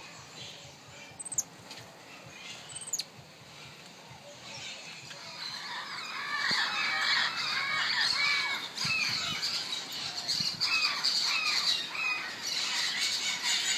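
A chorus of high chirping and squawking animal calls that grows steadily louder and denser from about four seconds in. Two short, very high, falling calls come within the first three seconds.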